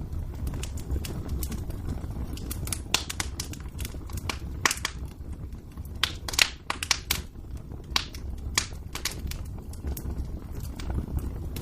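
Wood fire crackling in a fireplace: irregular sharp pops and snaps over a steady low rumble, thickest around the middle.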